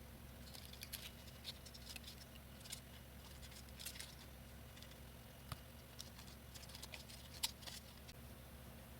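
Faint rustling and small clicks of construction paper and card being handled and worked, with a sharper tick about seven and a half seconds in.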